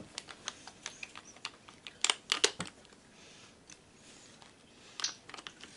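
Light scattered clicks and taps of metal parts being handled and pried, with a quick cluster of three sharper clicks about two seconds in and another near the end.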